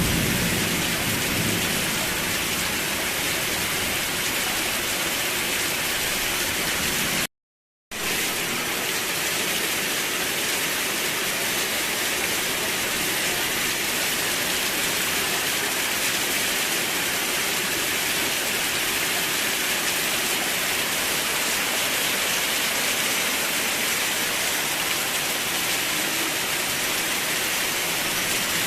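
Steady heavy rain, a dense even hiss of falling drops, with a low rumble of thunder dying away in the first couple of seconds. The sound cuts out completely for about half a second around seven seconds in, then the rain resumes.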